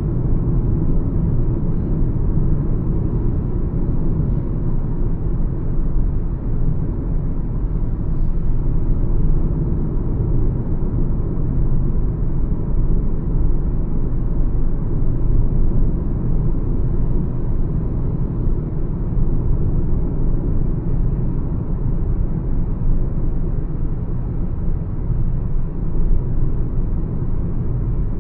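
Mahindra XUV 300 cruising on a highway: a steady low rumble of road and engine noise that holds even throughout.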